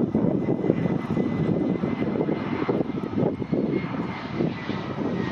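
Aircraft engine noise: a steady drone with a faint, thin high tone running through it.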